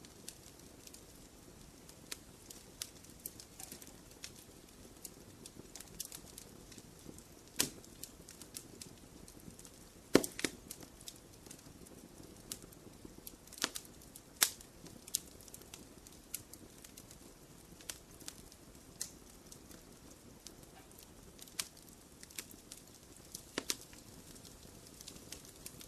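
Wood fire crackling in a fireplace: a low, even hiss under scattered clicks and pops, with a few louder pops, the loudest about ten seconds in.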